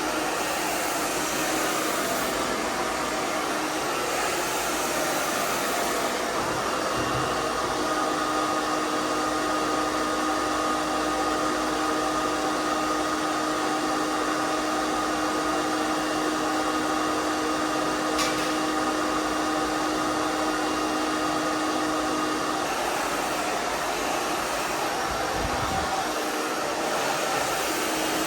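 Handheld hairdryer running continuously, blowing air with a steady motor whine. The tone shifts slightly a few times as the dryer is moved through long hair.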